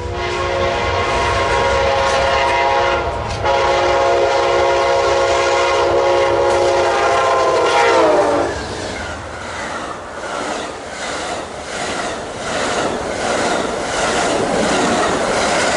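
Amtrak Southwest Chief led by P42DC diesel locomotives passing at speed, its horn sounding two long blasts that drop in pitch as the locomotive goes by. The horn gives way to a fast, even clickety-clack of the passenger cars' wheels over the rail joints.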